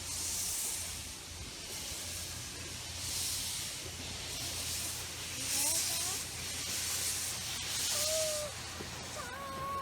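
Steam locomotive exhaust chuffing slowly: a hissing puff about every second and a half, over a steady low hum.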